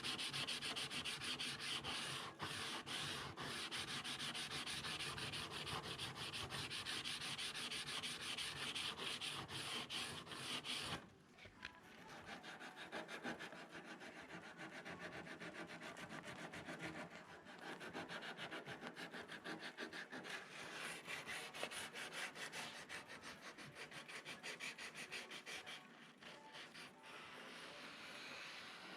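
Sandpaper rubbed back and forth over the FRP repair on an aero bumper, a rapid run of scratchy strokes. About eleven seconds in it drops suddenly to lighter, quieter strokes.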